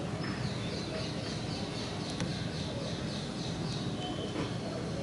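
A small bird chirping in a quick, even series of high calls, about four a second, that stops a little before the end, over a steady low background hum.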